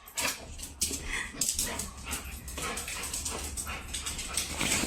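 A dog making short, irregular sounds, mixed with many quick clicks and scuffs.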